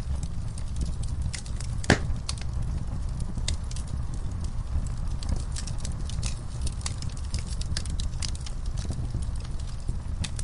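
Wood fire burning: steady crackling with irregular sharp pops over a low rumble, one louder pop about two seconds in.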